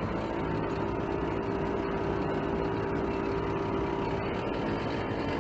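Dump truck engine running steadily, a constant hum with a held tone and no change in speed.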